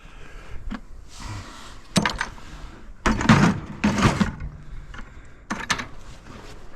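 Scrap metal being handled: a few sharp knocks, then a longer rattling clatter about three to four seconds in, and another short clatter near the end.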